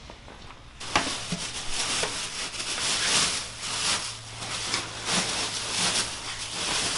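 Packing material rustling and crinkling as it is handled and rubbed around an outboard motor, starting abruptly about a second in, with a sharp knock at the start and scattered light knocks.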